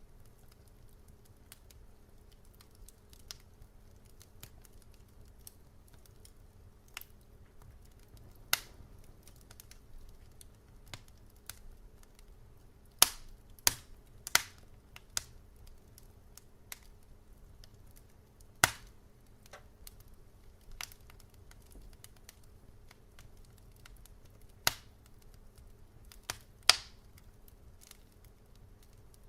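Wood fire crackling: irregular sharp pops and snaps over a low steady hum, with a cluster of louder pops about halfway through and single loud snaps near the end.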